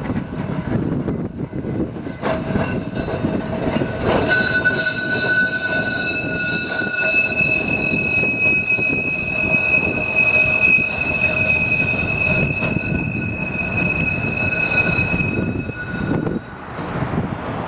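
Heritage tram running on the rails with its wheels squealing: a high, steady, many-toned squeal starts about two seconds in and dies away near the end, over the tram's low rumble.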